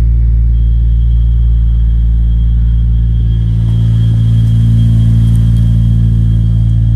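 Toyota 2JZ-GTE turbocharged straight-six on E85, idling steadily while still cold shortly after a cold start, a deep even rumble. A thin, steady high whistle sits above it, which the owner puts down to the throttle body.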